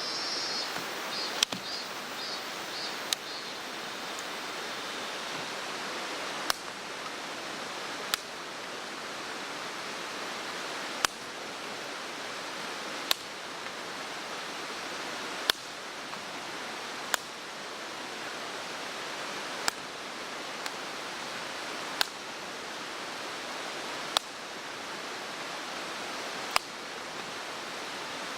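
Steady rush of a mountain stream, with a sharp click or pop roughly every two seconds. A few faint high chirps in the first few seconds.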